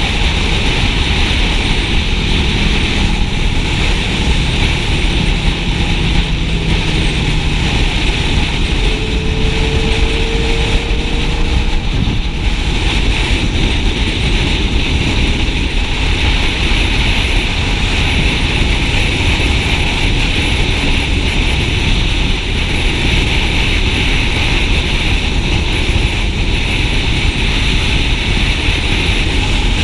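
Steady wind rush on the microphone of a moving motorcycle, with engine and road noise underneath. A faint, short rising tone comes through about ten seconds in.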